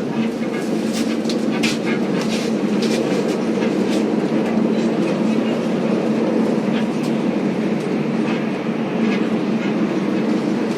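Express tram running along its line, heard from inside the car: a steady humming drone with scattered clicks and rattles from the wheels on the rails.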